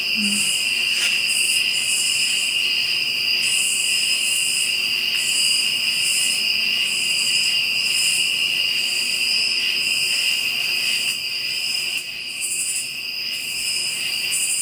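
Night chorus of crickets and other insects: a steady, shrill, high trill with a higher layer that pulses on and off about once a second.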